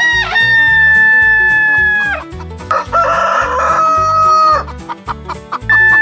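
Rooster crowing, each crow a long, held call: one running for about two seconds, a second in the middle, and a third starting near the end. Background music with a steady beat plays underneath.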